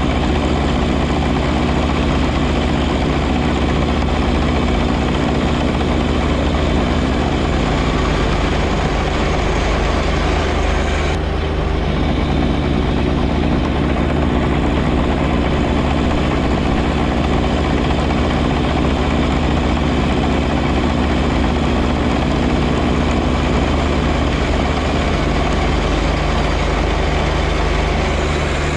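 John Deere 1025R compact tractor's three-cylinder diesel engine running steadily while it works a front snow blower. About eleven seconds in, the higher hiss drops away suddenly while the engine note carries on.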